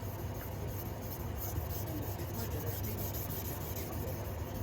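Ashi Ginga AEB-L petty knife rubbed back and forth across a Shapton Pro 2k whetstone, a rapid run of gritty scraping strokes, with a steady low hum underneath.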